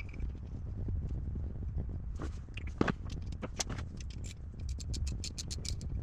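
Small parts being handled during a hydraulic box rebuild: scattered clicks and scrapes, a sharper knock about three seconds in, and a quick run of light clicks near the end, over a steady low rumble.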